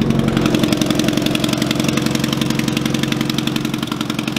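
Car engine idling on a home-welded exhaust, with a rapid, even fluttering from an exhaust leak. The exhaust manifold bolts have backed out of the head at the rearmost cylinder.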